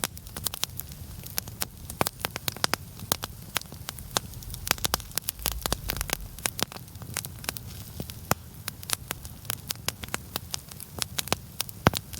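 Larch-wood campfire crackling, with frequent sharp irregular pops, several a second, over a low steady rumble.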